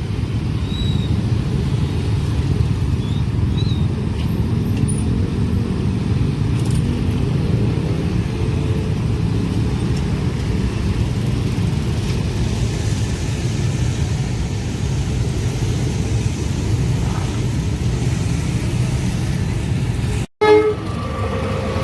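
Road vehicles running at a railway level crossing, a steady low rumble. After a brief break near the end, a horn begins to sound.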